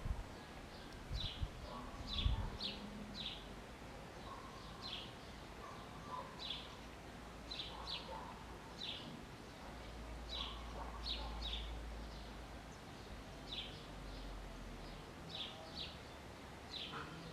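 Small birds chirping in the background: short, high chirps repeating irregularly, about one or two a second, over a faint low rumble.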